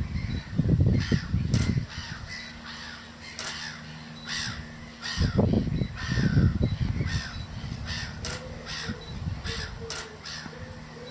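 Birds calling: a string of short calls, roughly one a second. There are two low rumbling bursts, one near the start and one about five seconds in.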